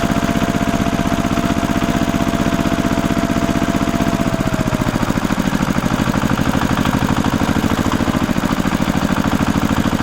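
Small engine of a DIY mini tractor running steadily with a rapid, even firing pulse. Its note drops a little about four and a half seconds in.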